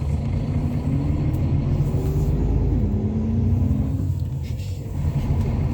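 Steady low engine and road rumble heard inside the cabin of a moving Hyundai Universe Space Luxury coach.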